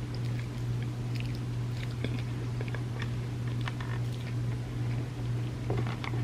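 Close-miked mouth sounds of someone chewing a soft-baked chocolate chip cookie cup layered with chocolate wafers: scattered small wet clicks and light crunches, with a cluster near the end. A steady low hum runs underneath.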